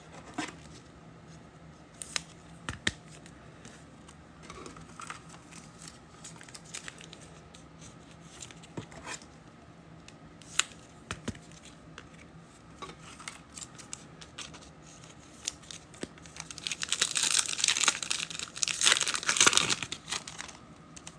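Scattered light clicks and taps of cards being handled, then, for the last few seconds, a foil trading-card pack wrapper being torn open and crinkled.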